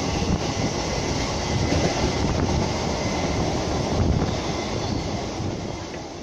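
Electric local train running at speed, heard from its open doorway: a steady rumble of wheels on the rails, fading toward the end.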